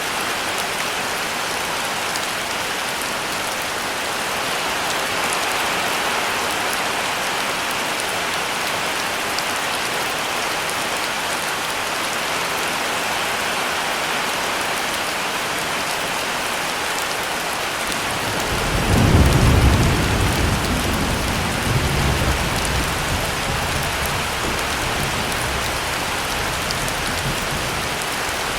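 Heavy rain falling steadily. About two-thirds of the way through, a deep roll of thunder rumbles in, peaks within a couple of seconds, and keeps rolling more softly to the end.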